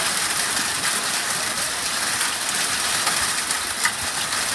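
Heavy rain of a severe thunderstorm pouring down, a steady loud hiss.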